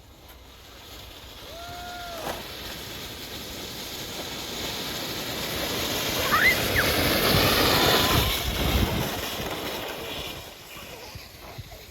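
A sled sliding over an ice sheet: its hissing scrape swells as it comes closer, is loudest about eight seconds in, then fades as it goes past. Two short shouts sound, about two seconds in and about six seconds in.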